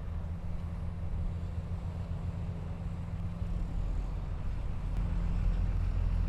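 Heavy diesel engine of earthmoving equipment running steadily with a deep drone, growing a little louder near the end.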